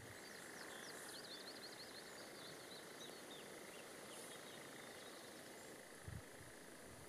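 Faint bird calls: a quick run of high chirps and twitters over the first five seconds or so, then a soft low bump about six seconds in.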